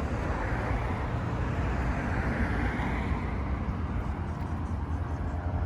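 Steady street traffic noise: a continuous low rumble with a hiss of passing vehicles, and no distinct events.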